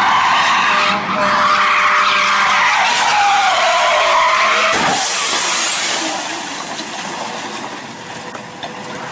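Car tyres squealing in a long skid for about five seconds, the screech wavering in pitch, then a short knock and quieter road noise.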